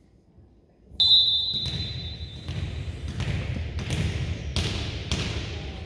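Referee's whistle blown once, about a second in, a steady shrill note lasting about a second and a half, the signal to serve. It is followed by about six thuds echoing in the gym, a volleyball being bounced on the floor.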